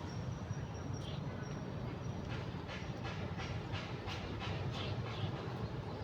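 A bird calling a quick series of short notes, about three a second, over a steady low outdoor rumble.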